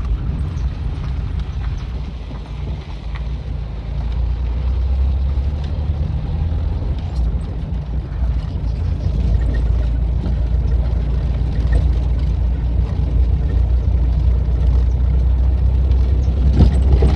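Ford Del Rey Belina driving over a dirt road: a steady low rumble with scattered knocks and rattles, a stronger one near the end, from the car's noisy suspension.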